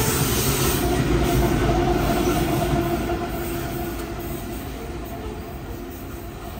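Coal train of hopper wagons and its rear diesel locomotive rolling past, with a faint steady whine in the rumble; the sound fades steadily over the second half as the train pulls away.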